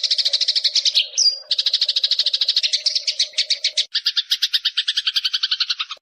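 Recorded songbird calls in a fast, continuous chattering trill, with a brief clear whistle about a second in. After about four seconds the trill changes to a lower two-toned pattern, and the recording cuts off abruptly at the end.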